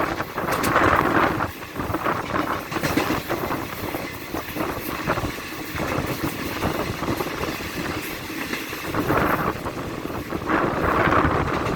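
Moving passenger train running on the rails: a steady rumble and rattle of wheels on the track, swelling and easing in gusts.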